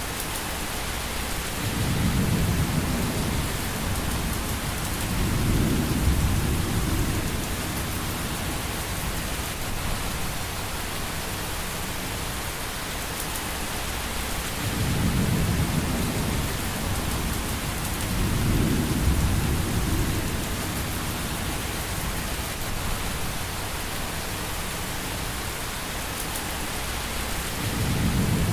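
Steady rain hiss with low rumbles of thunder swelling and fading five times, each lasting a second or two.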